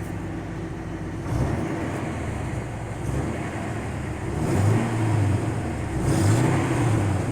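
Ford F250 Super Duty's 5.4 L Triton gas V8 running, its exhaust sounding as the engine is revved up three times from idle.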